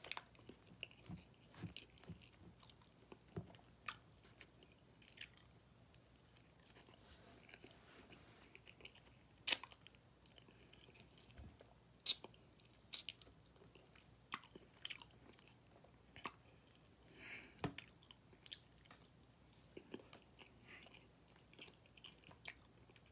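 A person chewing and biting into barbecue-sauced ribs close to the microphone, with scattered sharp wet clicks and smacks of mouth and fingers.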